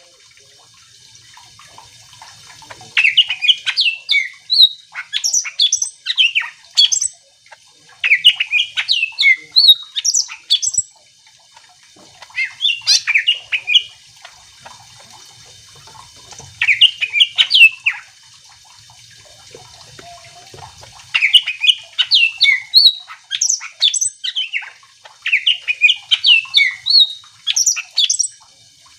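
Green leafbird (cucak ijo) singing: repeated phrases of quick, sliding chattering and whistled notes, each lasting one to three seconds with short pauses between them.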